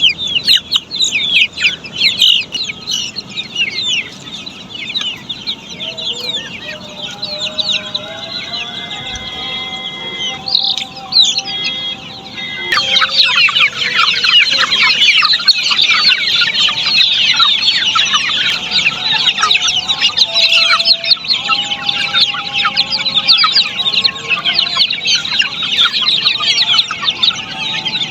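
A flock of Australorp chicks peeping nonstop, a dense chorus of short, high, falling cheeps. There are some lower, longer calls beneath, and the whole chorus gets louder about thirteen seconds in.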